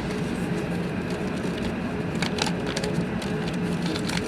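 Airbus A380 cabin noise: the steady roar of engines and airflow with a constant low hum and a fainter higher drone. A few light clicks or rattles come about two seconds in and again near the end.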